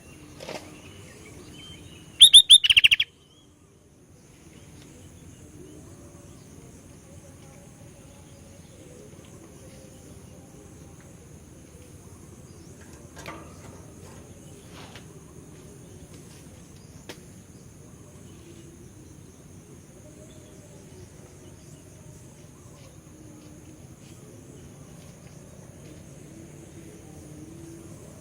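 Sooty-headed bulbul (kutilang) giving one short burst of rapid, high, repeated notes about two seconds in. The rest is faint background with a steady high hiss and a few soft clicks.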